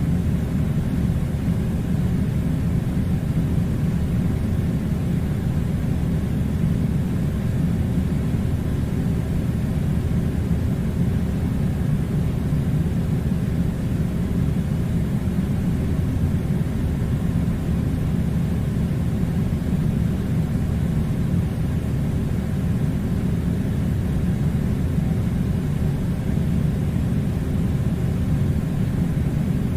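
Air conditioner running with a steady low rumble, unchanging throughout.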